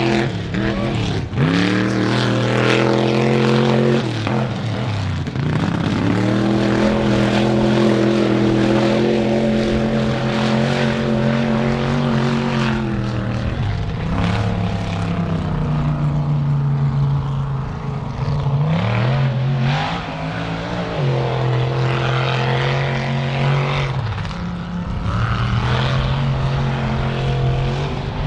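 Mud truck engine running hard at high revs, its pitch dropping and climbing back up several times.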